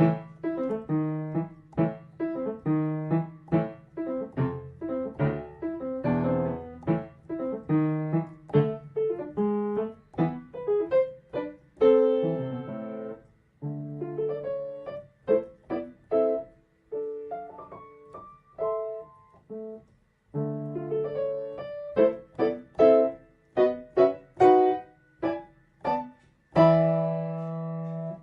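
Solo piano music: a lively tune of quickly struck notes, with a few short breaks.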